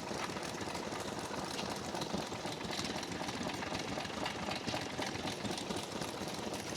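Vintage stationary engines running steadily, with a fast, even mechanical beat.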